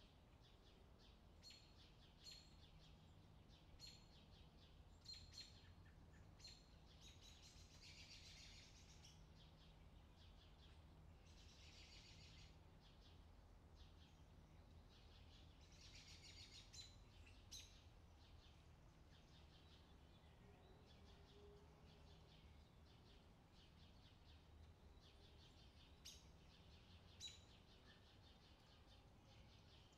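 Faint bird chirping: a short high chirp repeated about once a second for the first few seconds, a few longer bouts of twittering, then scattered chirps, over a faint low steady hum.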